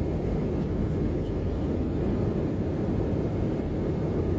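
Steady cabin noise inside an airliner: an even, low rush of engine and airflow noise with no change in level.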